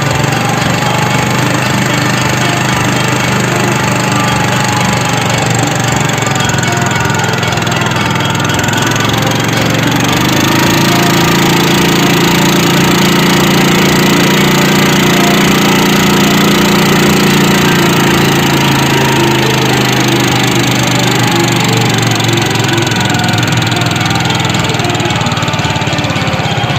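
Small engine running steadily, its pitch rising about ten seconds in as it speeds up, then easing back down about eight seconds later.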